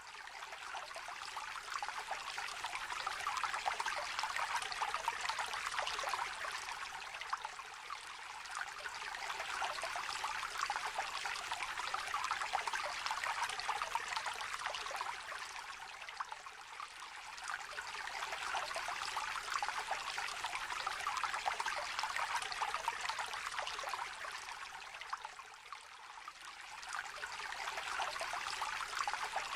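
Small shallow stream trickling and babbling steadily, its level swelling and easing gently about every nine seconds.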